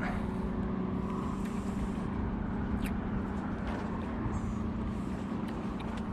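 A motor running steadily with an even low hum, with a couple of faint clicks.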